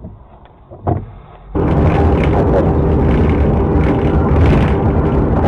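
A short, quieter stretch with a single thump about a second in. Then, from about a second and a half in, loud, steady vehicle noise: a low rumble with rushing road and wind noise.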